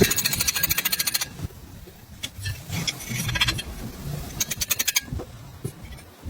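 Bursts of rapid metallic clicking and rattling from tool work on a moped's two-stroke engine, densest in the first second and returning in shorter runs twice more.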